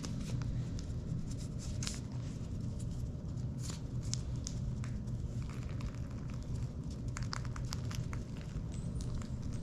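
Small Parmesan cheese packets being handled and shaken out over food: scattered light crinkles and taps, over a steady low hum.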